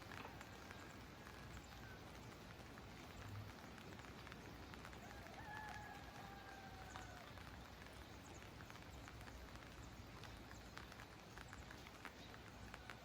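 Faint rain dripping, with many scattered drops ticking. A faint drawn-out call, such as a distant bird's, sounds once around the middle.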